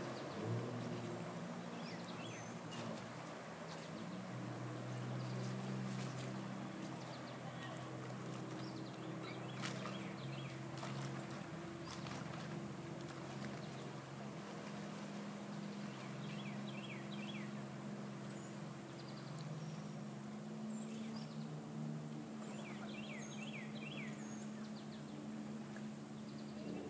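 Jet ski engine running at a distance, a steady hum that shifts in pitch a few times as the throttle changes. Short high chirps come and go over it.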